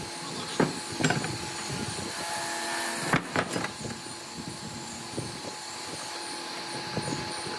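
Woodworking sounds: a steady tool noise with a few sharp knocks of wood, the loudest a pair just past three seconds in.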